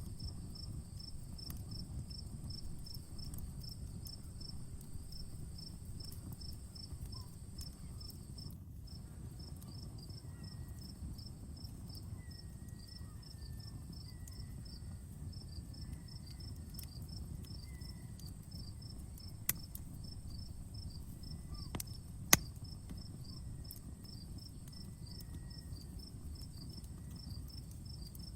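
Crickets chirping in a steady, rhythmic pulse and a continuous high trill, over the low rumble of an outdoor campfire. The fire gives a couple of sharp pops about two-thirds of the way through.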